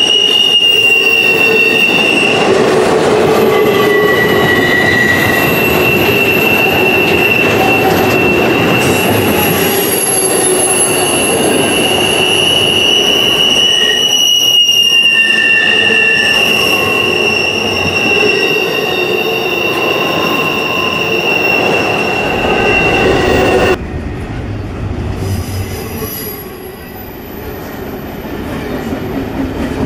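Freight train of empty intermodal well cars rolling past on a curve, its wheels squealing in several steady high-pitched tones over the rumble of the cars. About three-quarters of the way through, the sound drops abruptly to a quieter rolling rumble without the squeal.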